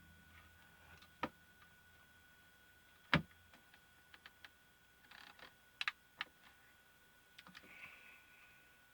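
Scattered light clicks and taps of small plastic parts and tools being handled, as the plastic case of a pico projector is worked at during disassembly. The sharpest click comes about three seconds in, and a quick cluster follows around five to six seconds in.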